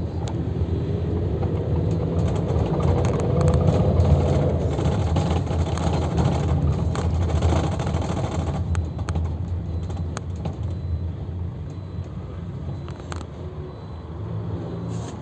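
Cabin noise of a Luidor-2250DS minibus on a Mercedes-Benz Sprinter diesel chassis under way: steady engine and road rumble with a light rising whine over the first few seconds and small interior rattles. The rumble grows quieter through the second half.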